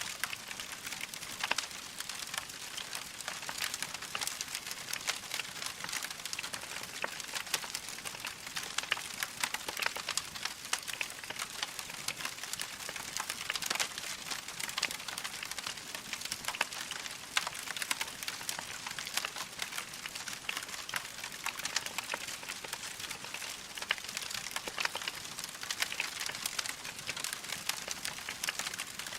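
Log fire crackling steadily, with a constant hiss and many small sharp pops and snaps.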